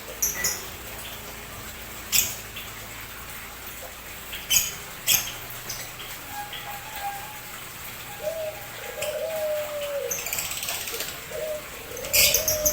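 Caged lovebirds and sparrows calling: short, sharp high chirps every second or two, joined in the second half by low, arching cooing notes.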